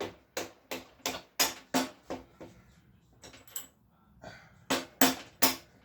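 Repeated sharp knocks from a knocking stick tapping a part into place on a Honda ST50 moped: a quick run of about three blows a second, a short pause with a couple of lighter taps, then another run of four harder blows near the end.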